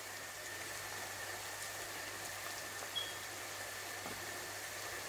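Sliced onions and ground spices frying in oil in a wok: a steady, quiet sizzle, with a faint tap about three seconds in.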